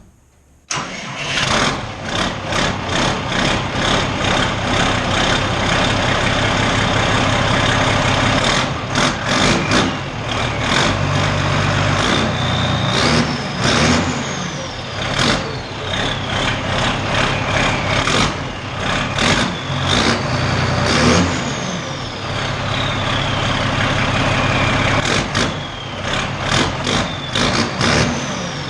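Valtra 8750 tractor's turbo diesel engine running loud through a straight exhaust pipe, starting up about a second in and then revved again and again. After several of the revs the turbo whistle rises and then falls away as the engine comes back down.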